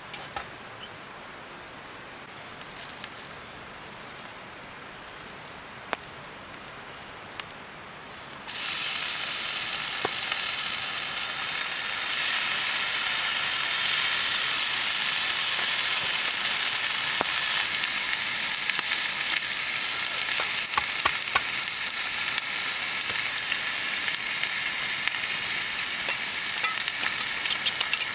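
Food frying in a hot pan: a loud, steady sizzle that starts suddenly about eight seconds in, as food meets the hot metal, after a few light clicks and knocks.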